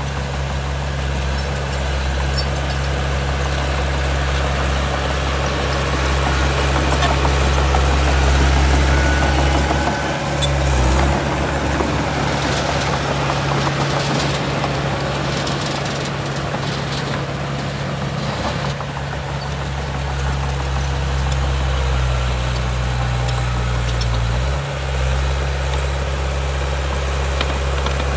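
Heavy diesel engine of earthmoving machinery running steadily, its note shifting briefly about ten seconds in and again near the end.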